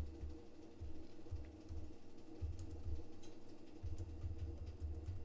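Faint typing and clicking on a computer keyboard, with low thuds on the desk and a steady electrical hum underneath.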